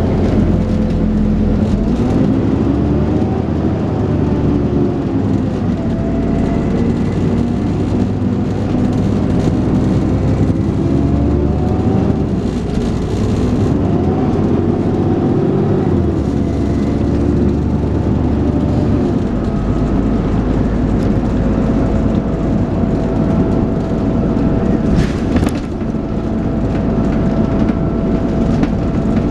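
Dennis Trident 2 double-decker bus heard from on board, its engine and automatic gearbox working hard: the engine note rises and falls several times as the bus accelerates and changes gear, then settles into a steady run for the last several seconds.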